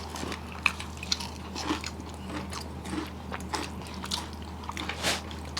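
Close-miked eating sounds: scattered soft clicks and smacks of chewing and mouth noises as someone finishes a rice meal.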